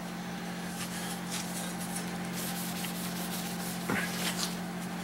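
Rag rubbing and wiping a steel engine windage tray clean with carb cleaner, a soft, uneven rasping over a steady low electrical hum. There is a brief click about four seconds in.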